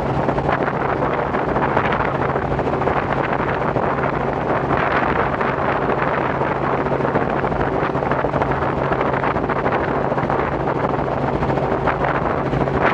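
Robinson R44 helicopter in flight: its rotor and Lycoming six-cylinder piston engine make a steady, unbroken drone, with wind rushing over the microphone.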